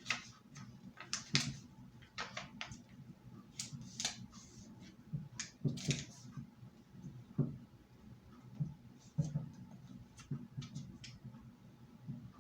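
A sheet of paper being folded and creased by hand: irregular rustles, crinkles and small taps as the corners are folded in to the center line.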